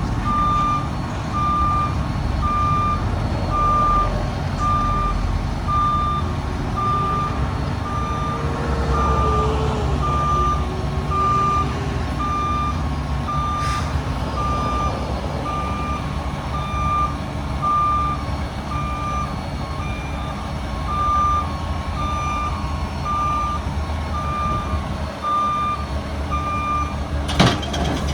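Heavy diesel truck's backup alarm beeping steadily, about once a second, over its running engine. A faint whine rises and falls partway through, and there is a sharp snap near the end.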